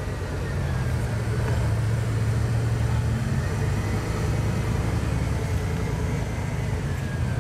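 Bugatti Veyron's quad-turbo 8.0-litre W16 engine rumbling at low revs as the car creeps forward at walking pace. It grows louder over the first second or two as the car nears, then holds steady.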